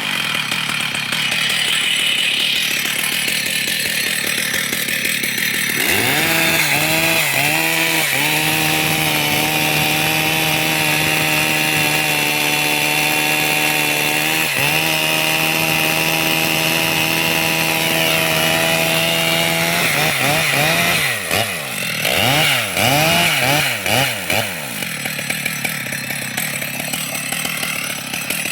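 Two-stroke chainsaw revved up several times, then held at a steady high speed for about twelve seconds as it saws into wood. Near the end it is blipped up and down in quick revs.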